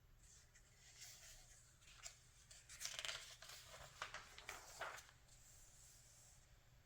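Glossy magazine pages being turned by hand: a soft paper rustle that builds to a few sharp crackles and snaps around the middle, then settles.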